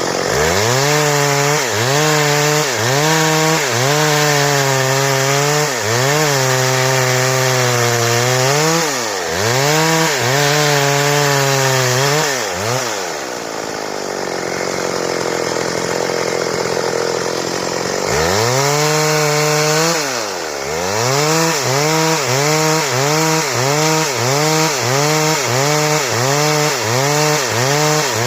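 Stihl chainsaw cutting wood under load, its engine pitch dipping and recovering over and over as the chain is pushed into the cut. It eases off for a few seconds about halfway, then resumes with quicker dips near the end.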